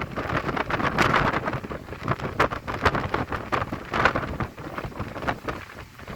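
Gusty wind buffeting the microphone during a thunderstorm, rising and falling in irregular gusts and easing off near the end.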